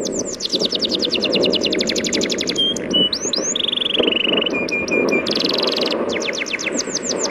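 A songbird singing a varied song of fast trills of down-slurred notes, short held whistles and a buzzy phrase about five seconds in, over a steady low rush of sea waves.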